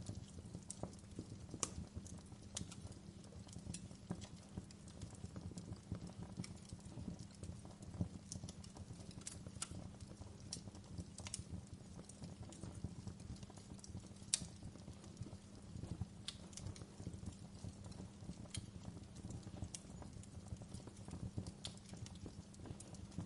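Wood fire burning with a steady low rumble of flames and irregular sharp crackles and pops of burning wood.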